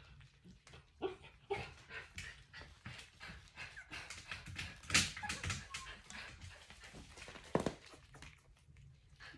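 About three-week-old puppies squeaking and whimpering, with many small clicks and scuffles; the loudest moments come about five seconds in and again near 7.5 s.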